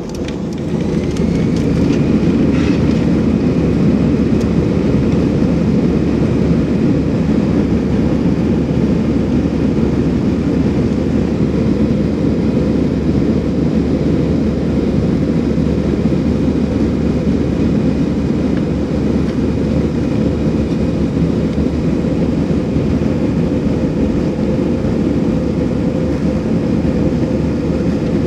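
Airbus A320's CFM56 turbofan engines spooling up to take-off thrust, heard inside the cabin: a whine rises in pitch about a second in and settles into a steady high tone over a loud, steady rush of engine noise.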